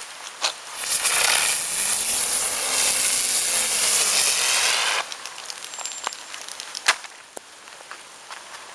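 A small ground firework burning with a loud rushing hiss for about four seconds, with a faint pitch rising and falling, then stopping abruptly. Scattered sharp pops and crackles follow.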